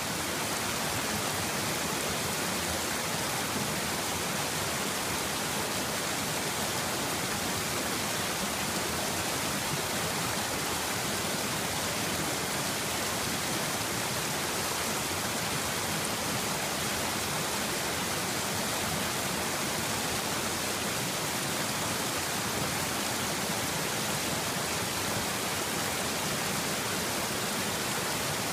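Water flowing steadily through a stream channel, a constant even rushing hiss with no breaks.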